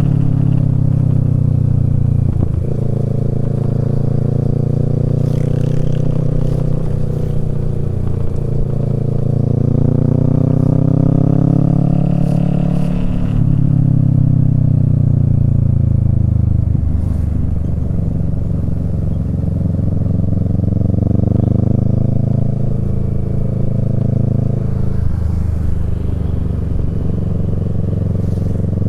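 Kawasaki Z650's parallel-twin engine running through a Yoshimura Alpha exhaust while riding. The note climbs steadily for about ten seconds, drops away as the rider eases off, then rises again and dips near the end.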